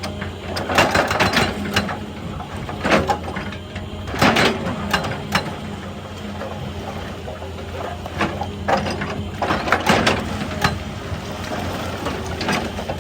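Excavator working rock: its diesel engine running steadily under short, repeated bursts of scraping and clattering as the bucket bites into stone.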